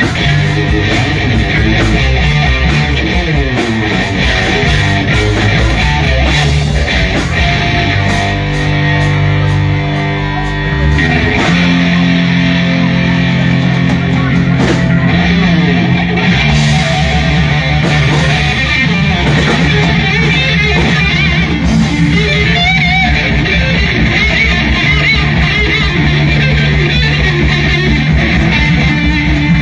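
Live band music with no vocals: electric guitar out front over bass notes.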